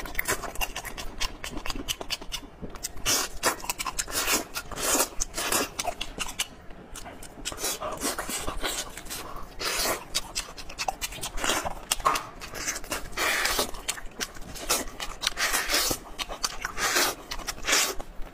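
Close-miked eating sounds: wet chewing, sucking and lip-smacking as sticky braised meat is bitten and pulled off the bone, in a dense, irregular run of smacks and slurps.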